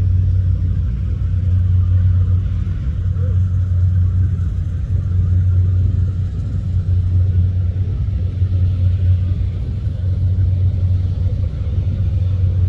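Rice combine harvester running steadily, its engine giving a constant low drone.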